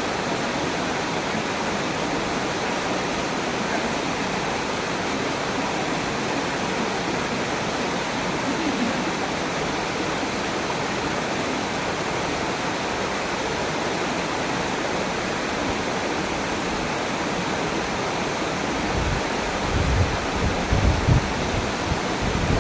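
Waterfall: a steady, even rush of falling water. Near the end, a few brief low rumbles rise over it.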